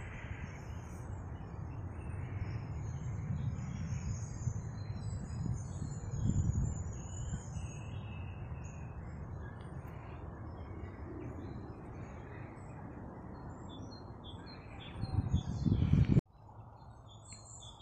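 Small songbirds chirping and twittering over a low rumble on the microphone. The rumble swells a couple of times, and the whole sound cuts off abruptly near the end.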